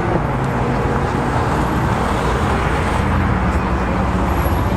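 Steady street traffic noise with car engines running, a low even drone.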